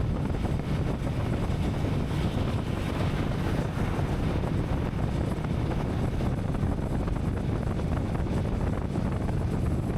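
Royal Enfield Meteor 350's single-cylinder engine running steadily while riding at speed, with heavy wind noise buffeting the microphone.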